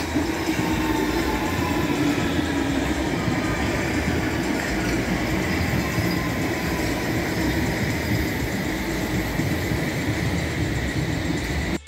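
London Underground train running along the track at a station: a steady loud rumble of wheels on rails with a faint held whine over it. It cuts off suddenly near the end.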